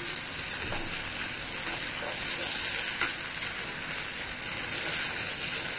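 Fried potatoes in a tomato-soya sauce sizzling in a metal wok while a wooden spatula stirs them: a steady hiss with a faint tick about three seconds in. Corn flour paste has just been stirred in to thicken the sauce and make it glossy.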